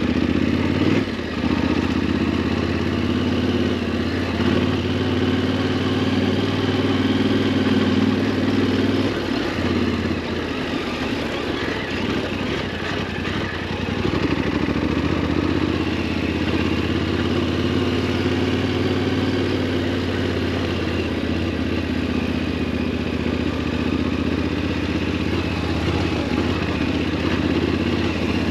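Yamaha Ténéré 700's parallel-twin engine running steadily while riding. It eases off about nine seconds in and picks up again around fourteen seconds.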